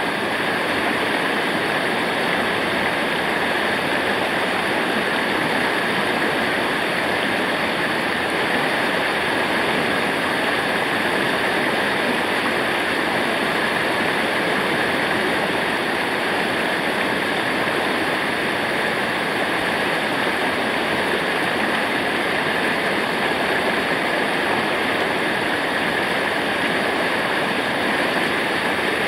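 Waterfall: a steady rush of falling water that does not change throughout.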